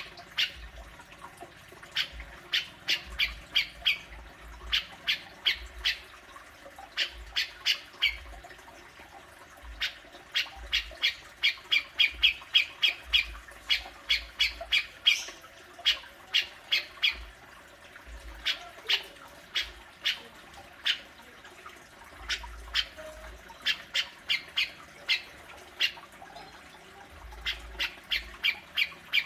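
Cucak jenggot (grey-cheeked bulbul) giving its harsh 'besetan' scolding call: rapid bursts of short, sharp notes, several to a burst with brief pauses between, repeated throughout and densest in the middle.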